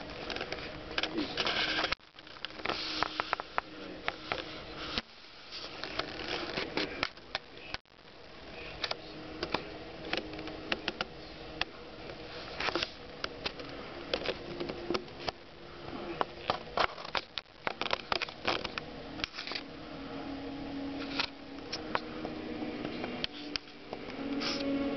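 Cats playing in and around a bag: rustling and crinkling with many irregular sharp clicks and taps.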